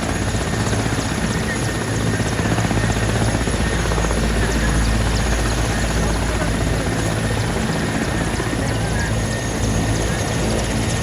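Helicopter running close by, its rotor and turbine making a loud, steady noise with a deep, even throb.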